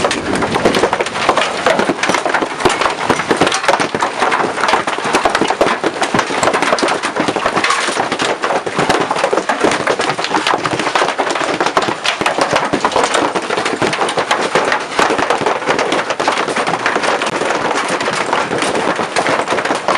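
Large hailstones, about golf-ball size, pelting down in a dense, continuous clatter of hard impacts.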